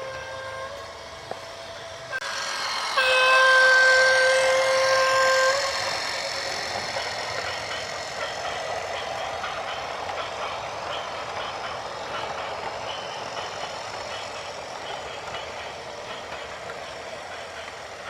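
A vehicle horn sounds briefly, then gives a louder, steady blast about three seconds in that lasts two to three seconds, over continuous engine and traffic noise.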